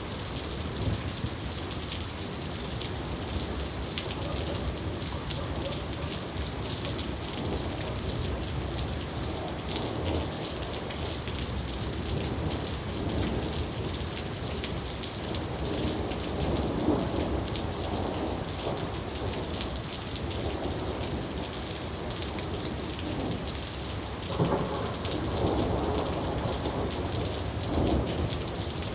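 Steady rain falling, with many individual drops ticking, and thunder rumbling several times. One rumble comes on sharply near the end.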